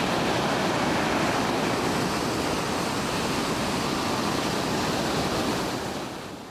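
Ocean surf and strong wind, a steady rush of noise that fades out near the end.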